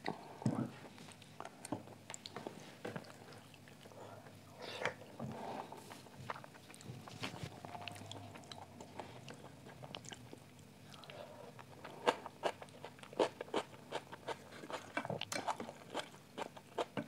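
A person chewing a mouthful of rice and hariyali chicken gravy, with many short wet clicks and smacks of the mouth, thickest in the last few seconds, and her fingers mixing rice into gravy on a steel plate.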